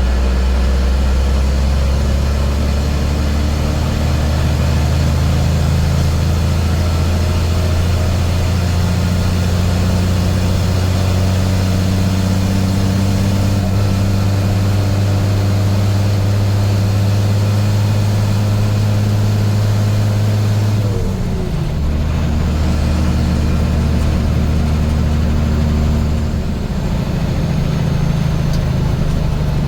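International DT466 turbo diesel in a 1987 S1900 dump truck running steadily while the truck is driven. About two-thirds of the way through, the engine note falls and changes briefly, then runs steady again.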